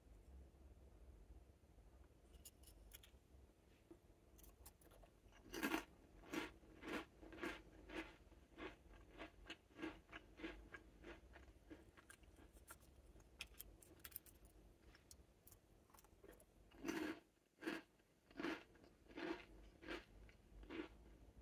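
Close-up crunching of crisp butter cookies being chewed. About five seconds in there is a run of crunches, about two a second; it pauses, then a second run starts near the end.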